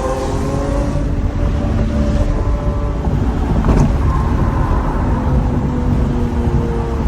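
Lamborghini Aventador SV's V12 engine running through a Capristo exhaust at a steady cruise over a heavy low rumble, its note easing slowly down. A brief click comes about halfway through.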